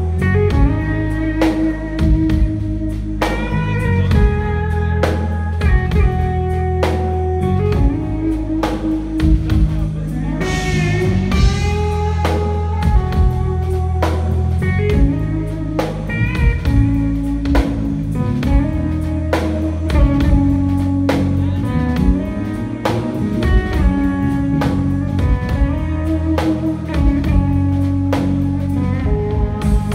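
Live band jam: an electric guitar plays a bluesy lead line over bass and a drum kit keeping a steady beat.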